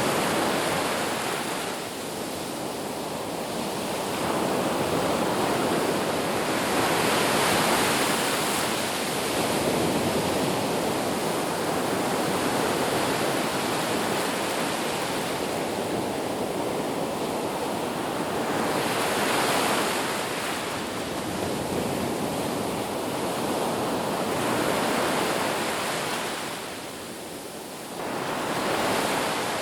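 Ocean surf: waves breaking and washing on a beach, the rush swelling and easing every few seconds, with a brief lull near the end.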